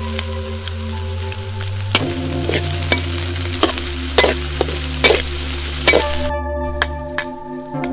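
Sliced shallots, garlic and chilies sizzling in hot oil in a metal wok, with a metal ladle scraping and knocking against the pan about every half second from about two seconds in. The sizzle cuts off suddenly near the end.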